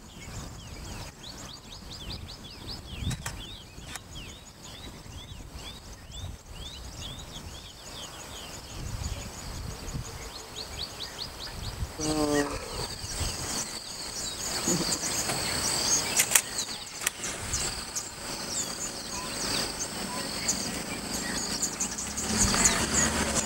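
Birds calling in open bush, a rapid run of quick downward-sliding chirps through the first half, then higher chirping and a short call falling in pitch about halfway through. A low engine hum comes in near the end.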